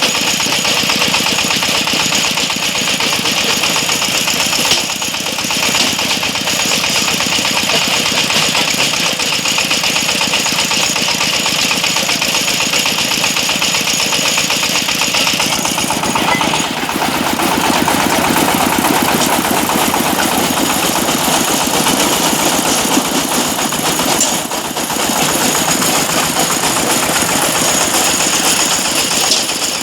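Engine of a brick-breaking machine running steadily and loudly, with a rapid, even firing chatter. About halfway through the tone shifts, losing some of its high hiss and gaining more mid-range.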